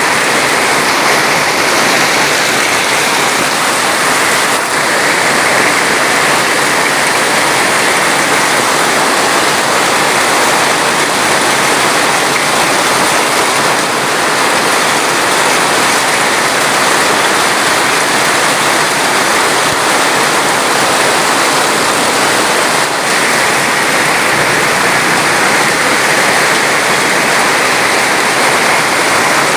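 Steady, unbroken rushing of water, loud and even, with no single splashes standing out.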